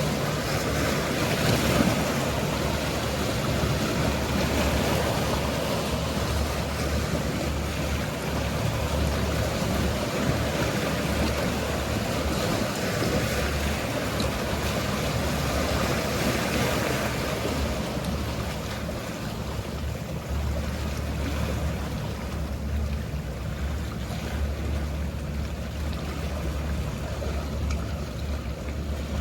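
Mediterranean sea waves washing with a steady low hum of boat engines underneath, the wash swelling briefly near the start and again around the middle.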